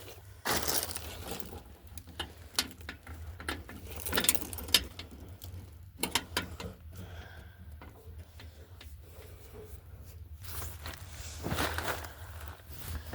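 Irregular clicks, rattles and rustling from handling things at an old, unstarted tractor, over a faint steady low hum.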